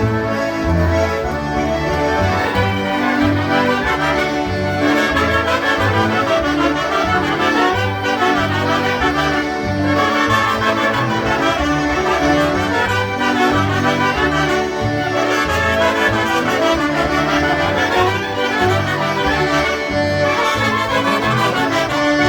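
A group of concertinas playing a lively polka together over a steady oom-pah bass line.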